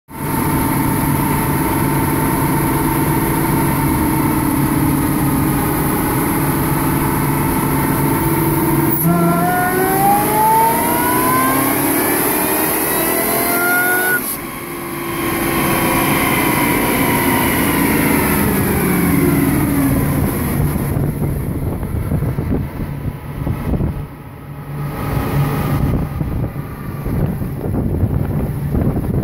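Supercharged 5.7 L Hemi V8 of a 2011 Dodge Challenger R/T running on a chassis dyno. It runs steadily at first. About nine seconds in, the revs climb in a rising pull for about five seconds, then the throttle comes off sharply and the revs wind down. Near the end it idles close to the microphone.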